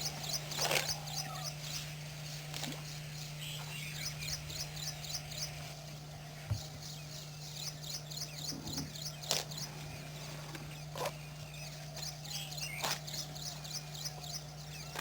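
Birds chirping in repeated quick high-pitched series, over a steady low hum, with a few sharp clicks.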